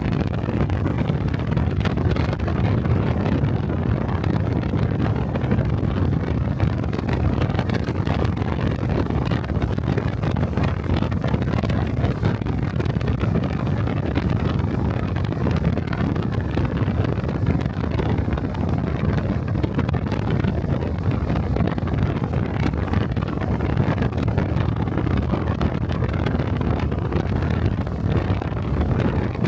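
Honda Cub 125 cc single-cylinder motorcycle running at steady riding speed, mixed with wind rushing over the microphone.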